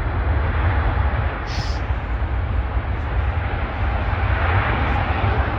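Jet airliner engines giving a steady rushing rumble, with a brief high-pitched chirp about one and a half seconds in.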